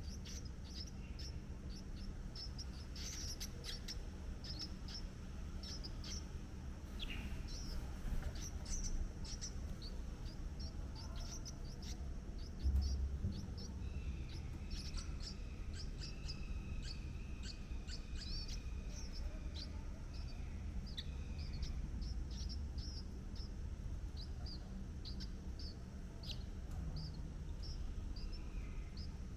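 Birds chirping, many short high chirps repeated throughout, over a steady low background rumble. A brief low thump about 13 seconds in.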